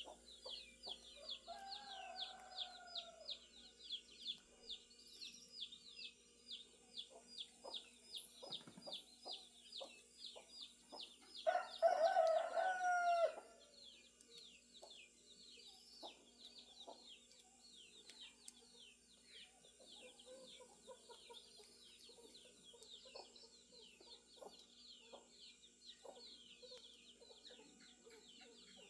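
Roosters crowing: a fainter crow about two seconds in and a loud, close crow around twelve seconds in. Behind them runs a continuous fast series of high, falling chirps, with hens clucking now and then.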